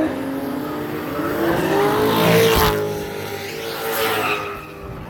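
Drift car passing close, its engine revving as the tyres squeal in a slide. It grows louder to a peak about two and a half seconds in, then fades toward the end.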